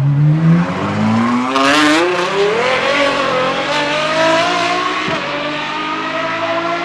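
Apollo Intensa Emozione's 6.3-litre naturally aspirated V12 accelerating hard, its pitch climbing steeply for about two and a half seconds and then holding nearly steady at high revs. A brief sharp burst of noise cuts in shortly before the revs level off.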